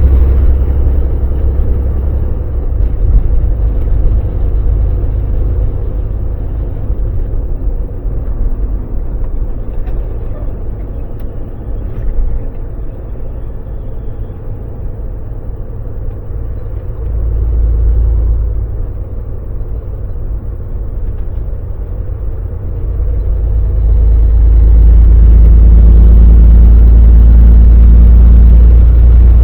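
Volvo VNL semi truck's diesel engine and road noise on the move: a steady, deep rumble that eases off in the middle and swells to a louder, even drone near the end.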